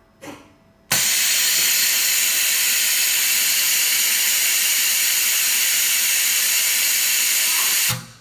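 A short soft puff, then a loud, steady hiss of rushing air that starts abruptly about a second in and cuts off about seven seconds later.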